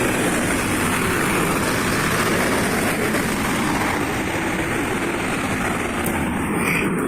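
Loud steady roar of a heavy vehicle passing close by. It swells up just before and fades away just after.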